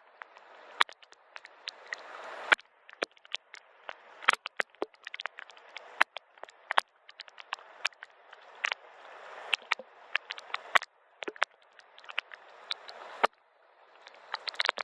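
Soft rain: a steady hiss of falling rain with frequent sharp drops tapping irregularly. The hiss swells and drops away abruptly a few times.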